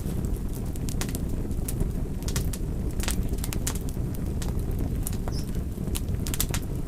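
Wood fire crackling: irregular sharp pops and snaps, two or three a second, over a steady low rumble of the flames.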